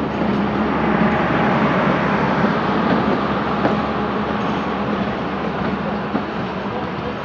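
Diesel-hauled passenger train at the station: a steady low engine drone under a continuous rumble of the train.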